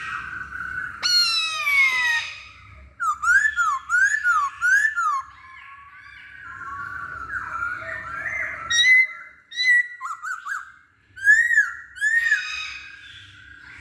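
Black-throated laughingthrush (poksay Hongkong) singing a loud, varied song of clear whistles. Long downslurred notes alternate with quick phrases of rising-and-falling whistles repeated three or four times, mixed with sharper high notes.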